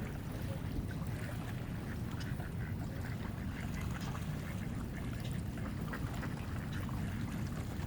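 Scattered short calls of waterbirds gathered on the water, over a steady wind rumble on the microphone.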